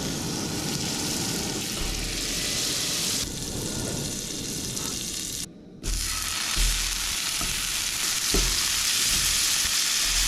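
Plant-based Beyond breakfast sausages sizzling in a hot frying pan, a steady frying hiss that cuts out briefly about halfway through and comes back louder.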